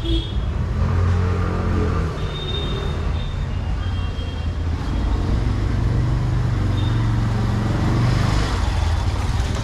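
Street traffic: motor vehicle engines running close by, a steady low rumble, with a few short high-pitched tones in the first few seconds.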